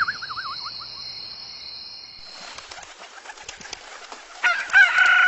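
A short warbling bird call at the start, then a soft rustling hiss, and from about four and a half seconds in a loud rooster crow, held and then falling away.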